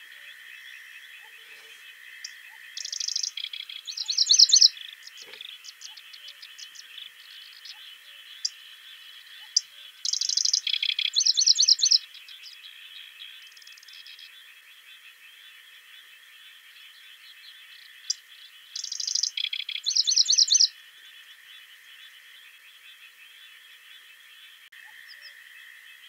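A songbird singing the same short, bright song three times, about eight seconds apart: each song opens with a dense burst of high notes and runs on into a quick series of repeated notes, lasting about two seconds. A faint steady background runs underneath.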